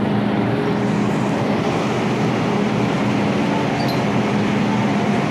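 MTR M-Train metro car running, heard from inside the carriage: a steady rumble of running noise with a constant low hum.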